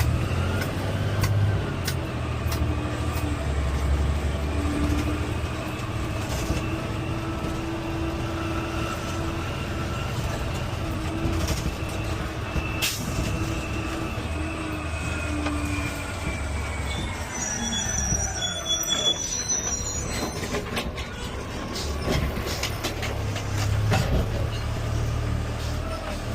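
Peterbilt 520 automated side-loader garbage truck: its engine and hydraulics whine up in pitch, hold a steady high whine for about fifteen seconds, then wind back down over the engine's low running. A few short high-pitched tones sound near the end of the whine.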